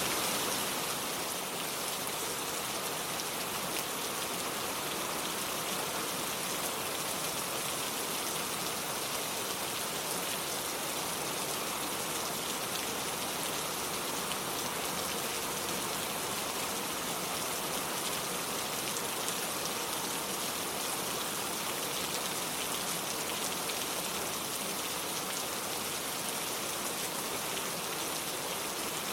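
Steady rain falling, an even dense hiss of many fine drops pattering with no breaks or single standout impacts.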